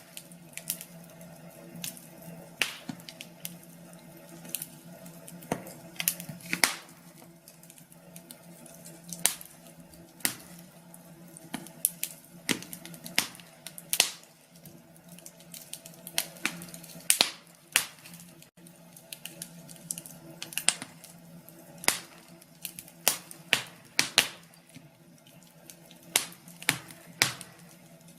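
Wood fire crackling: sharp, irregular snaps, sometimes several close together, over a faint steady hum.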